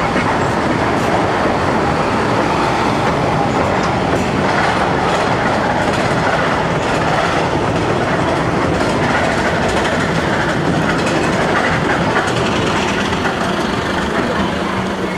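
Snowdon Mountain Railway rack railway carriage running along the track into the station, heard from aboard: a steady running noise of wheels on the rails.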